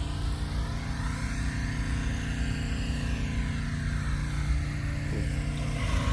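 A vehicle engine running steadily at idle, with a low, even hum.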